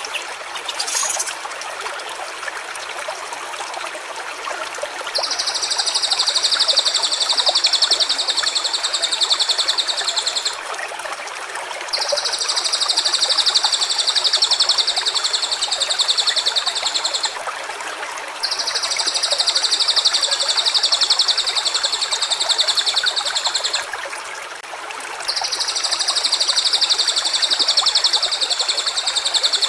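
Stream water running steadily, with a high, rapidly pulsing trill that lasts about five seconds and comes four times, with short gaps between.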